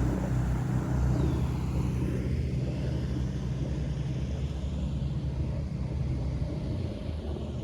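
Steady low engine hum with a light rumble, easing off a little near the end.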